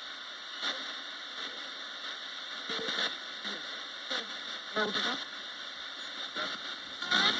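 Roberts radio sweeping through stations as a spirit box: steady static hiss broken every second or two by short snatches of broadcast sound, some of them fragments of voices, the loudest near the end.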